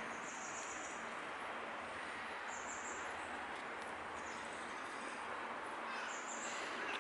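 Outdoor ambience of a steady background hiss, with a small bird giving a short, high, buzzy call about every two seconds.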